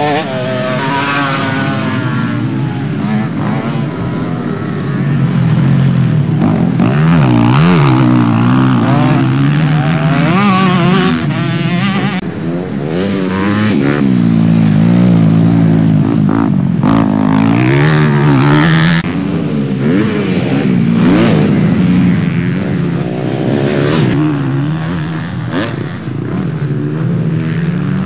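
Motocross bike engines racing, their pitch rising and falling again and again as the riders work the throttle and change gear.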